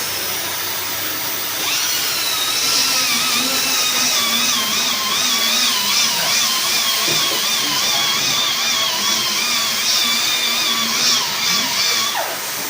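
Power tool starting up about two seconds in and running for about ten seconds with a high whine whose pitch wavers as the load changes, then stopping shortly before the end. A steady hiss of air runs underneath.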